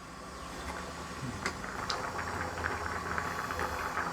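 Pot of gravy simmering on the stove, a steady bubbling hiss that grows slightly louder, with two light clicks about a second and a half in.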